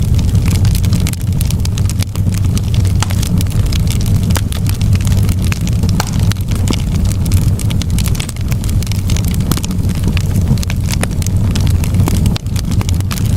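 Fireplace fire burning, a steady low roar of flame with frequent sharp crackles and pops of burning wood.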